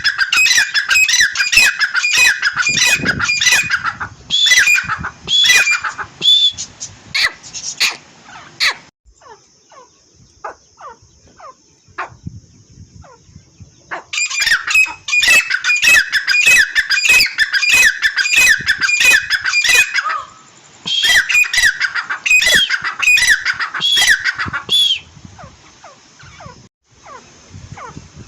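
A pair of francolins (teetar) calling, in loud runs of fast, harsh repeated notes. There is a lull of about five seconds near the middle and a quieter stretch near the end.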